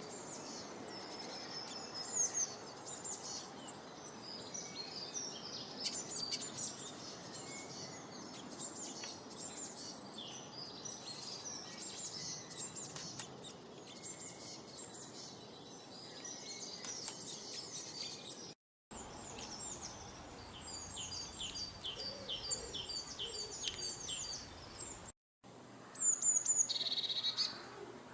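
Several small songbirds chirping and singing at once, many short high whistles and trills over a steady background hiss. The sound cuts out briefly twice. After the first cut one bird repeats a short note about every three-quarters of a second, and near the end a louder, harsher call stands out.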